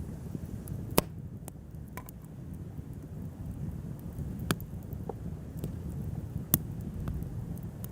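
Wood bonfire burning: a low steady rumble with scattered sharp crackles and pops, two of them louder, about a second in and near the end.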